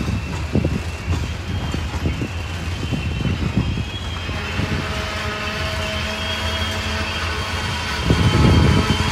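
Freight train of tank cars rolling past: steady rumble of steel wheels on rail with irregular clacks, thin high squealing tones above it, and a louder burst of clatter near the end.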